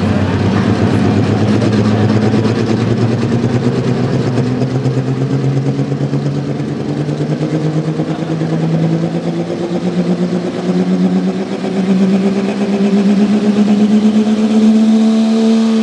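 Modified pickup truck engine running at full throttle as it pulls a weight sled down the track, its pitch climbing steadily the whole way. Right at the end the engine note drops sharply as the throttle is let off.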